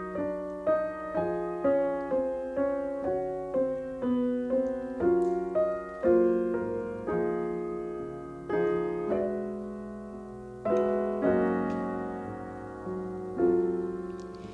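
Solo piano music: a slow melody over chords, each note struck and left to die away.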